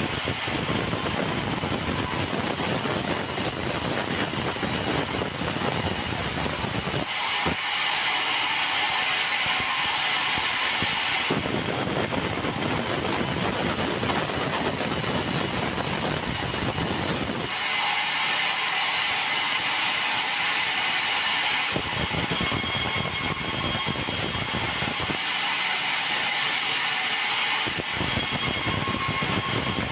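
Band sawmill running and sawing meranti logs, a steady mechanical din. The heavier sawing sound comes and goes in stretches of several seconds.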